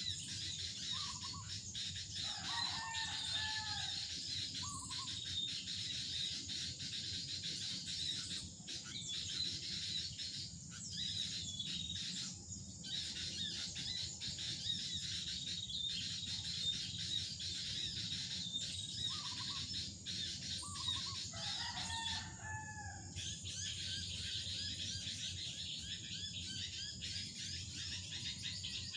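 Dense, steady chorus of insects and small birds in forest, with a fowl crowing twice: once a few seconds in and again about two-thirds of the way through, each crow set among short call notes.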